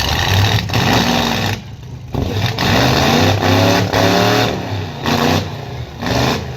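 Truck engine revving hard in repeated surges, its pitch rising and falling, with a few short dips between.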